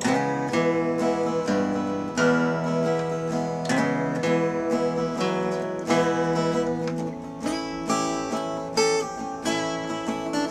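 Acoustic guitar strumming chords in a steady rhythm, an instrumental break in a country-style comedy song.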